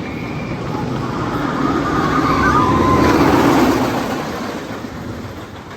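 Wooden roller coaster train rumbling past on its track. It builds to a peak about three seconds in and then fades away.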